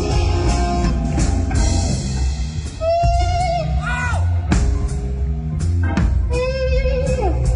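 Rock music with guitar, bass and drum kit playing, and a long held melodic line that waves and slides down, twice.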